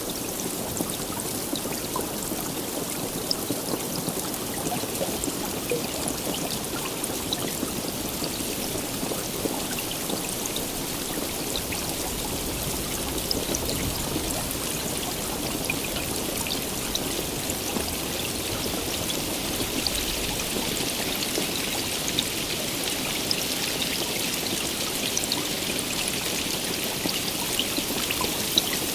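Steady heavy rain, a constant wash with scattered sharp ticks of individual drops striking a surface.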